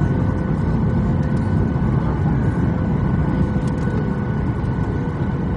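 Steady cabin noise of a Boeing 737-800 in flight: an even low rumble from the CFM56 engines and airflow, with faint steady tones above it.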